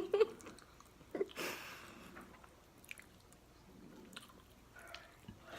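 A person quietly chewing a mouthful of seafood-boil food at close range, with faint wet mouth clicks.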